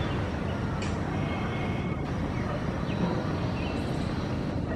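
An Indian Railways WAP-7 electric locomotive and its passenger train approaching, a steady rumble of running gear and machinery. A few short bird chirps come through above it.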